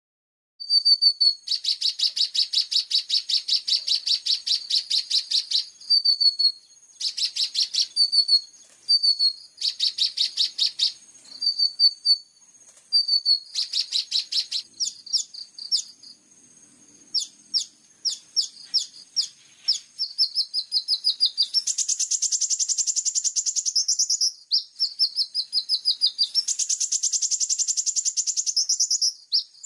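Songbird song from a bird-training master recording: long, high-pitched rapid trills of repeated notes in phrases of a few seconds, mixed with shorter chirps and chatter.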